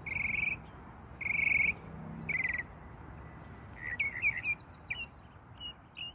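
A bird calling: three harsh, buzzy notes about half a second each, then a quick run of short chirps from about four seconds in.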